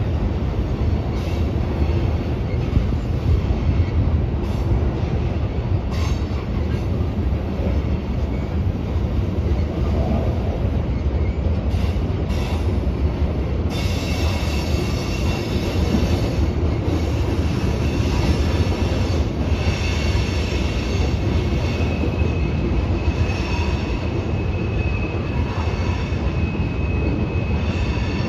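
Freight cars of a long CSX mixed freight train rolling past, a steady rumble of wheels on rail, with a high-pitched wheel squeal setting in about halfway through as the cars round the curve.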